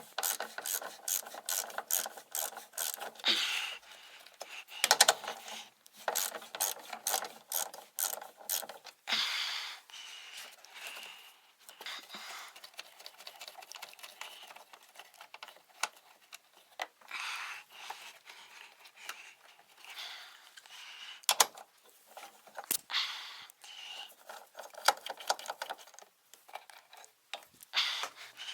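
Ratchet wrench clicking in short runs of quick, even clicks, with pauses between runs and a few single sharp knocks.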